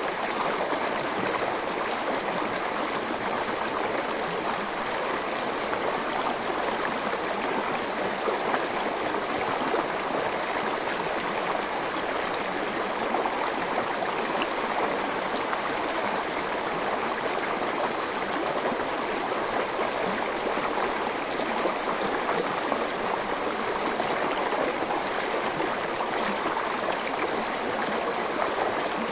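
Forest stream flowing over rocks, a steady rush of water with gurgling.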